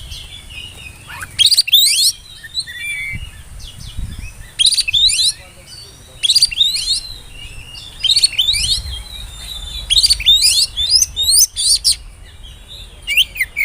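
Oriental magpie-robin (kacer) singing: short, loud whistled phrases of quick sweeping notes, repeated every couple of seconds.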